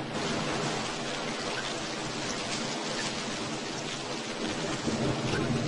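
Steady rain falling: an even hiss with faint scattered drop ticks, growing slightly louder near the end.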